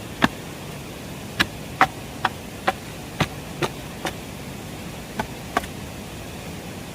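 About ten sharp knocks or chopping strikes at an uneven pace over six seconds, over a steady hiss.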